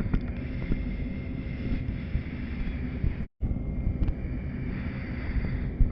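Pratt & Whitney Canada PT6A-68 turboprop of a T-6A Texan II idling on the ground, heard from the cockpit as a steady low rumble with a faint steady high whine. The sound cuts out completely for a split second about a third of the way through.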